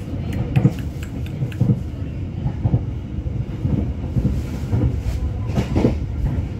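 Passenger train running, heard from inside the carriage: a steady low rumble of the wheels on the track with knocks about once a second as they cross rail joints.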